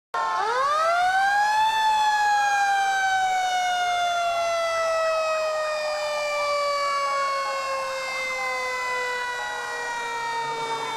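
Fire engine siren winding up quickly over the first two seconds, then slowly falling in pitch as it winds down.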